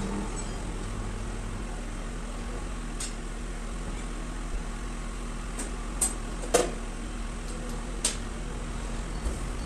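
Steady machine hum with a few sharp clicks and clinks scattered through it, the loudest about two-thirds of the way in.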